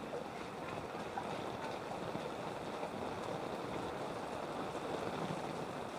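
Steady rushing and sloshing of street flood water.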